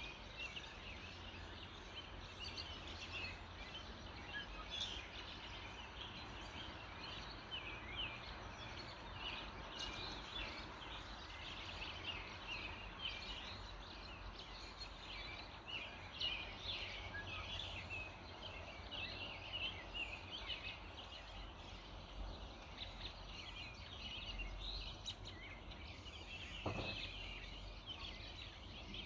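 Dawn chorus of many small birds chirping and singing at once, over a steady low background rumble, with one brief knock near the end.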